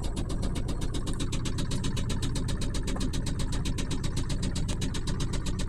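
Ford 4.6-litre V8 of a 1998 F-150 idling with a rapid, steady knock. The knock comes from around the starter, and the owner suspects the starter, flywheel or transmission.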